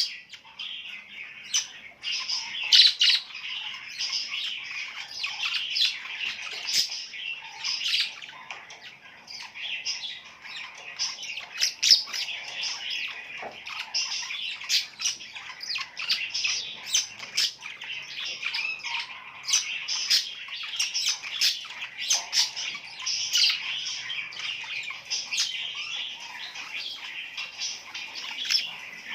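A group of birds chirping and squawking without pause, a dense chatter of many short, sharp calls overlapping one another.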